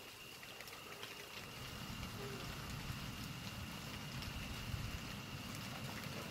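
Rain falling with scattered raindrop ticks, joined about a second and a half in by a low rumble of distant thunder that builds and holds.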